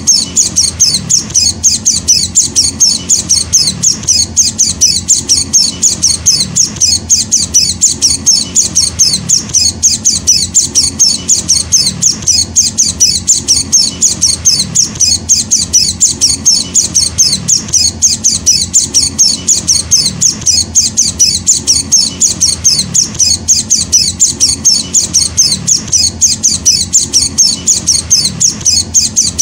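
Young Zosterops white-eye (pleci) chick calling: high-pitched chirps repeated evenly, about four a second.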